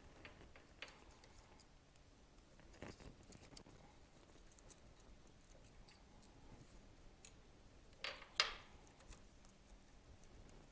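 Faint scattered clicks and light taps of tools and parts being handled during a motorcycle engine teardown, with two sharper knocks close together about eight seconds in.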